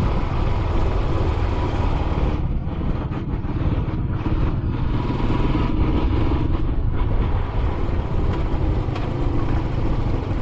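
Royal Enfield Classic 500's single-cylinder engine running steadily while the motorcycle is ridden, mixed with a heavy, steady rush of wind noise on the microphone.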